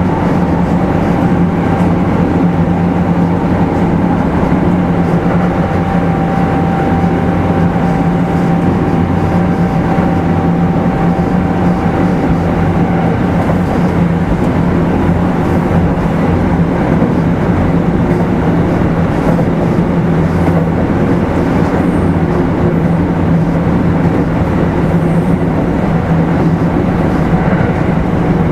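Kintetsu 5200 series electric train running steadily at speed, heard inside the motor car: a constant rumble of wheels on rail with a low hum. A thin whine sounds over it for the first twelve seconds or so, then fades out.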